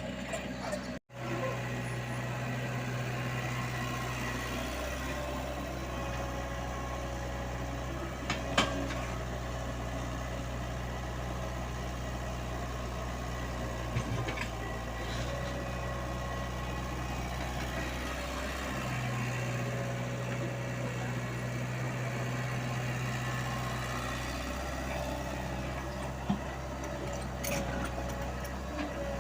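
Komatsu PC75UU mini excavator's diesel engine running steadily, its low hum swelling for a few seconds twice as it works. A few sharp metallic knocks sound over it, the loudest about eight seconds in.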